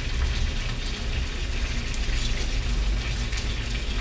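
Chicken frying skin-down in a hot pan, a steady sizzle, with a few light knife taps on a wooden cutting board as a red onion is cut.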